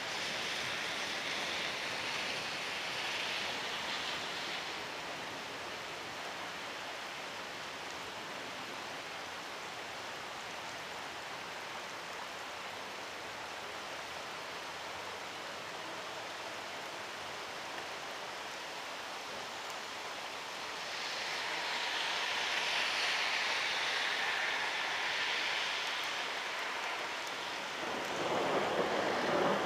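Heavy thunderstorm rain falling steadily, swelling twice, with thunder starting to rumble near the end.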